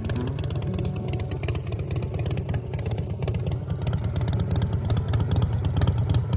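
Custom chopper's RevTech V-twin engine running, with a rapid, even firing beat that gets slightly louder in the second half.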